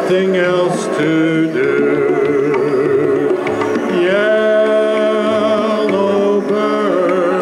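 Electronic keyboard playing an instrumental passage of a Caribbean island song: a held lead melody with vibrato over chords, a bouncing bass line and a rhythm-section beat.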